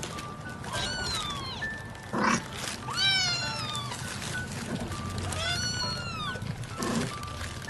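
A cat meowing three times, each call rising and then falling in pitch, over light background music. Two short noisy bursts come between the calls, about two seconds in and near the end.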